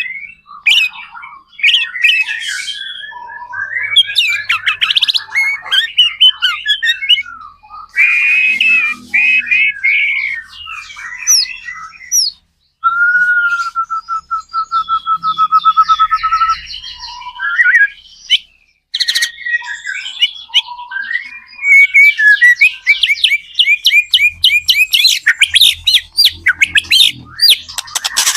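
White-rumped shama (murai batu) singing loudly in full song (gacor): a varied stream of clear whistles, gliding notes and harsh chattering phrases. About halfway through it holds a long, even trill, and near the end it delivers a fast run of rapidly repeated notes.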